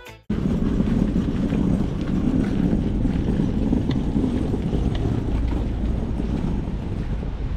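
Wind buffeting the microphone over a steady low engine rumble, starting suddenly a moment in.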